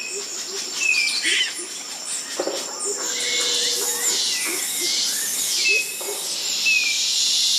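Wild birds calling in a jungle chorus: short falling whistles recur several times over repeated, pulsing higher calls that start about three seconds in, with soft low calls underneath.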